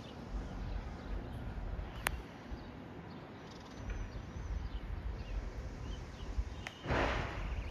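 Outdoor background noise with a steady low rumble, a single sharp click about two seconds in, faint short chirps in the middle, and a brief loud burst of hiss near the end.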